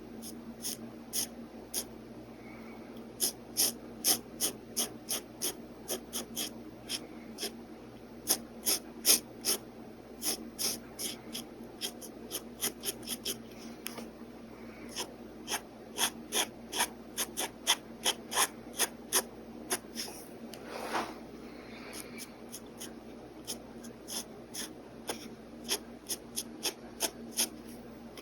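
Pen nib scratching on paper in short quick strokes, coming in uneven runs of about two a second with brief pauses. There is one longer, fuller stroke about 21 seconds in.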